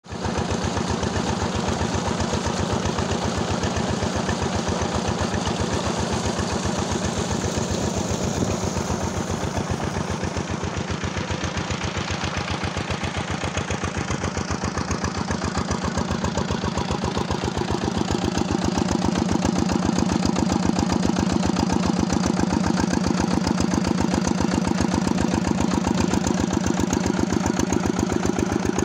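Diesel engine running steadily with an even firing beat, growing a little louder about two-thirds of the way through.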